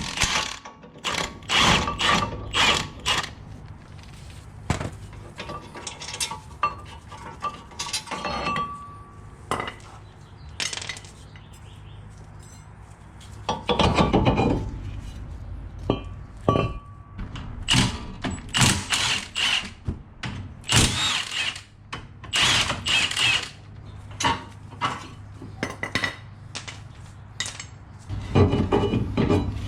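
Tools working on metal: a run of separate clanks, knocks and clicks, with a longer burst of noise about fourteen seconds in.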